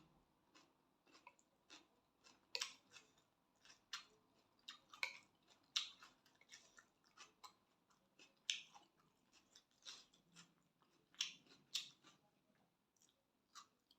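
Close-up chewing and mouth sounds of someone eating spicy glass noodle salad: irregular wet clicks and smacks, a few of them much louder.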